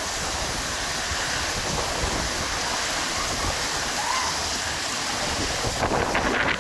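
Heavy storm rain falling steadily, a continuous rushing hiss, with a few sharp clicks and knocks near the end.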